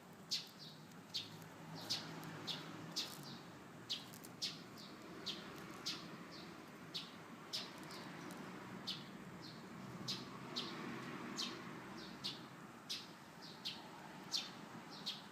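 A small bird chirping over and over: short, sharp high chirps, about one to two a second, over a faint low rustle.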